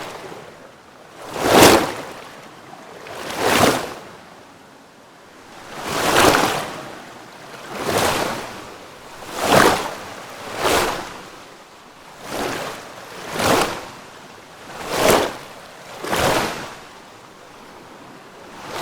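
Water rushing in repeated surges: about ten swells of noise, each rising and falling, one every one to two seconds, over a quieter steady wash between them.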